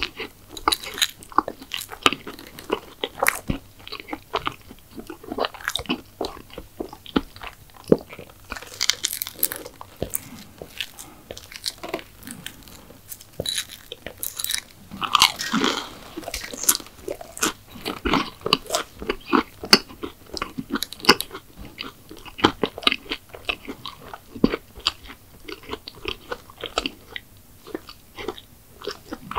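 Close-miked eating: bites and chewing of McDonald's sweets, full of small crunches and crackles, with a louder crunchy burst about halfway through.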